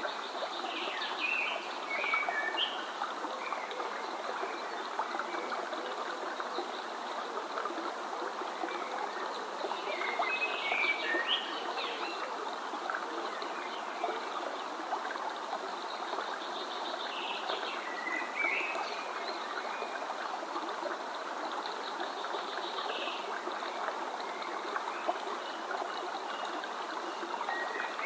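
A stream running steadily, with a songbird singing short chirping phrases every several seconds over it.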